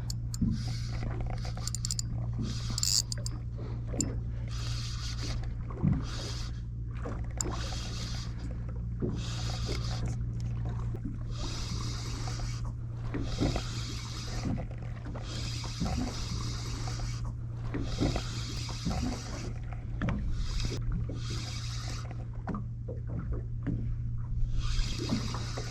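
A fishing boat's engine humming steadily, with water splashing and lapping against the hull in short bursts every second or two.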